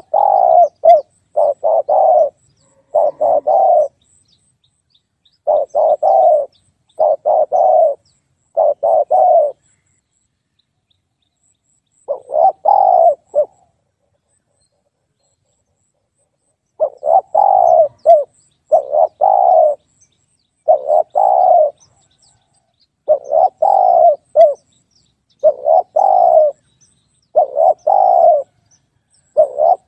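Spotted dove cooing: repeated phrases of a few short, low coos with brief silent gaps between them, and one longer pause about halfway through.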